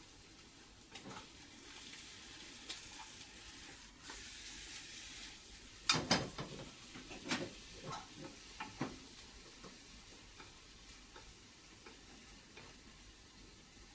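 Kitchen cooking sounds: a soft sizzling hiss in the first few seconds, then a quick run of clicks and taps of utensils against cookware about six seconds in.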